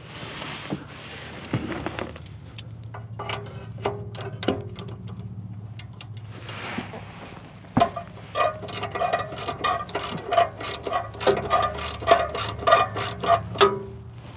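Hand ratchet clicking in quick short strokes as a socket works loose the nut on an exhaust flange spring bolt. There are scattered clicks at first, then a sharp knock about eight seconds in, followed by steady rapid ratcheting with a metallic ring.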